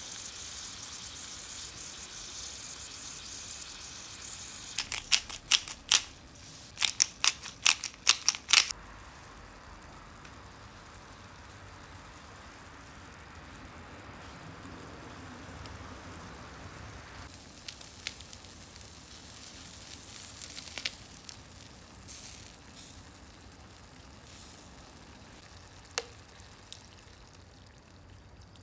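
Food sizzling over charcoal on a shichirin grill. About five seconds in comes a quick run of loud, sharp clicks lasting a few seconds, after which the sizzle goes on more quietly with a few scattered clicks.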